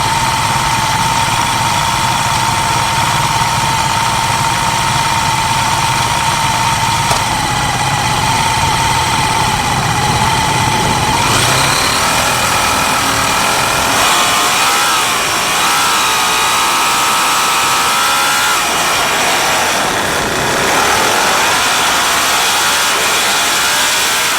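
Vintage racing motorcycle engines running at a steady pitch, then, from about halfway through, several engines revving up and down with their pitches rising and falling.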